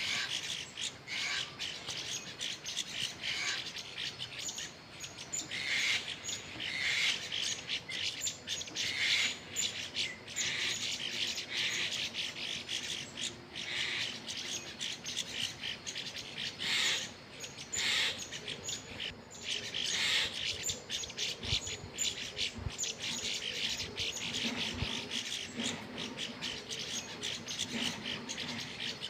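Small birds chirping at a feeder: many short, overlapping chirps and tweets that keep on steadily.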